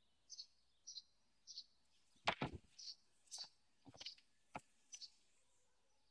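A small bird chirping faintly, one short high chirp about every half second. A few sharp knocks cut in, the loudest just past two seconds in and others a second or two later.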